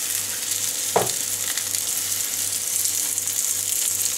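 Egg and potato mixture sizzling steadily as it hits hot oil in a non-stick frying pan, with a brief clink about a second in.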